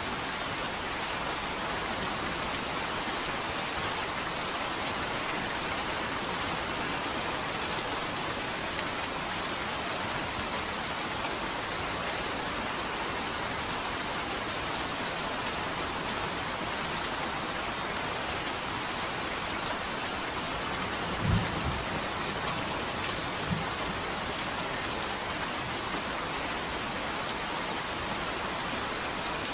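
Steady, even rain falling on a surface. Two brief low thumps of thunder come about two-thirds of the way through, the second smaller than the first.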